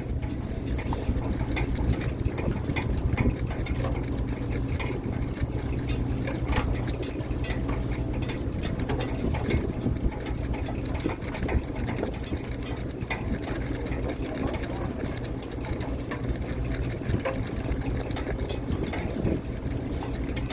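Fishing boat's engine running steadily, with a fast, even mechanical clatter over a constant low hum.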